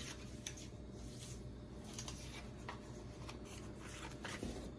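Quiet room tone: a steady low hum with a few faint, short clicks.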